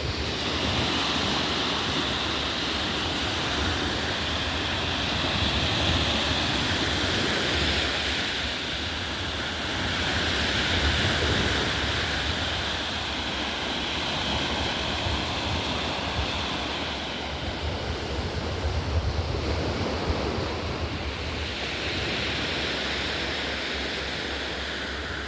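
Waves washing onto the beach in a steady hiss that swells and eases every few seconds, with wind buffeting the microphone in a low, gusting rumble.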